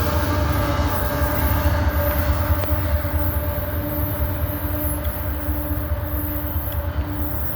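Freight train cars of a grain train rolling past: a steady low rumble of wheels on rail with a thin sustained tone that drops out briefly a few times, easing slightly toward the end.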